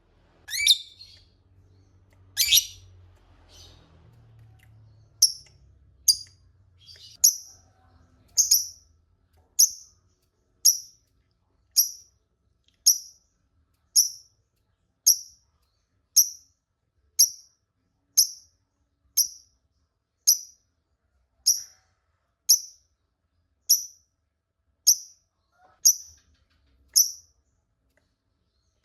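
Lovebird calling: two longer, sweeping shrieks at the start, then a long, evenly spaced series of short, sharp, high chirps about once a second.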